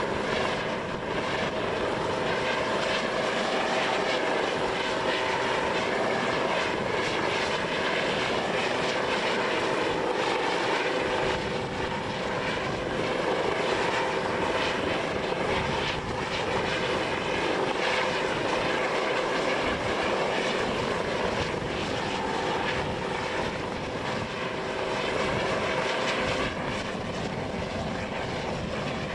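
Aircraft engines running: a steady drone with a constant whining tone, easing slightly near the end.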